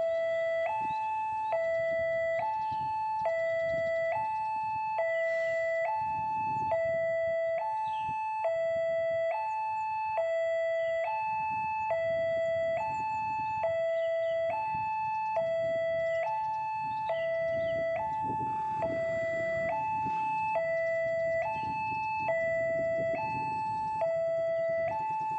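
Railway level-crossing warning alarm: an electronic two-tone chime alternating steadily between a lower and a higher note, each held for under a second, the signal that a train is approaching and the crossing is closing. A low rumbling noise runs underneath and swells at times.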